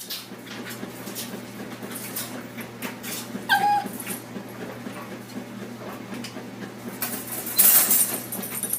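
A dog gives one short, slightly falling whimper about three and a half seconds in, over a steady low hum, with scattered knocks and a loud burst of noise near the end.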